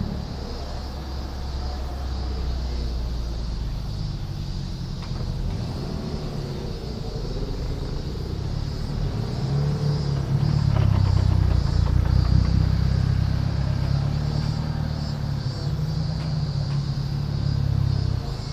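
Car engines rumbling as cars roll out slowly, with brief rises in engine pitch; the rumble swells about ten seconds in as a car passes closer.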